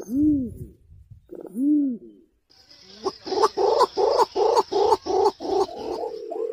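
Green imperial pigeon calling: two deep coos that rise and fall in pitch, then, after a short gap, a fast run of pulsed notes at about five a second that ends in a held low note.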